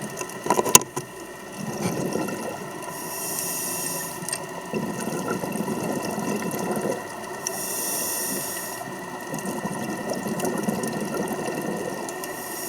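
Scuba diver breathing through a regulator underwater: a hiss on each inhale, about every four and a half seconds, and a bubbling rush of exhaled bubbles between them. A few sharp clicks come in the first second.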